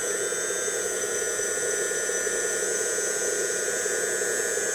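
Brushless-motor hydraulic pump of an RC dump truck running steadily under load as it slowly raises the tipper bed, giving a steady whine over a band of noise.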